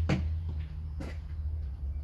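Car engine idling with a steady low hum, just after being started cold. Two short knocks are heard, one at the start and one about a second in.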